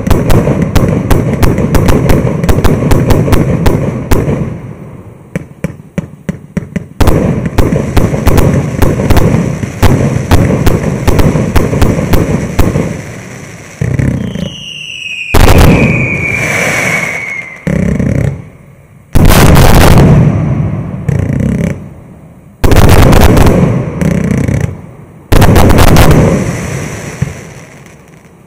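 Evgran 600-shot, 1.2-inch-calibre firework cake firing: dense rapid volleys of shots for the first half, then a whistle falling in pitch, then a handful of heavy single bursts a few seconds apart, each trailing off into crackle.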